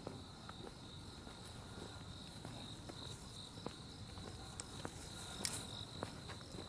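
Insects chirping in a steady high trill, with scattered short clicks and knocks of footsteps, the loudest about five and a half seconds in.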